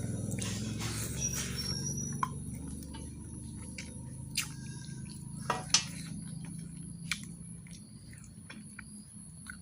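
Someone eating mutton curry and rice: wet chewing and mouth sounds, with several short sharp clicks over a low steady hum that fades gradually.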